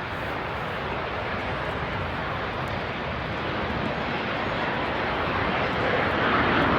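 Aircraft engine noise: a steady rushing that grows steadily louder as the plane draws nearer.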